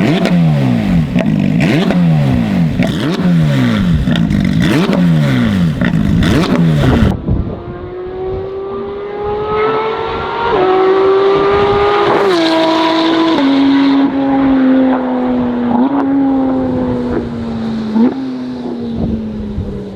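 Porsche 992 GT3 RS flat-six through a de-catted titanium valved exhaust, free-revved in quick blips about once a second. About a third of the way in it cuts to the engine running under way, its note stepping up and down with gear changes and falling overall, with short rev blips near the end.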